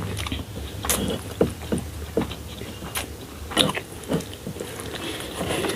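Close-up chewing with irregular wet mouth clicks and smacks, as a snack is eaten.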